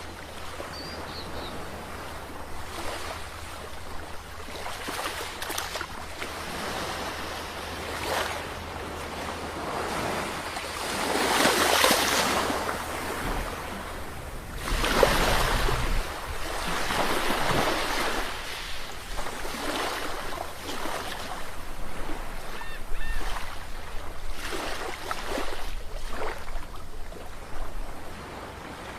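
Sea waves breaking and washing ashore, swelling in repeated surges every few seconds, the loudest rushes about halfway through.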